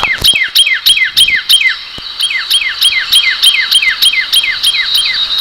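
A songbird singing a rapid, even series of repeated down-slurred notes, about four a second, over a steady high-pitched tone.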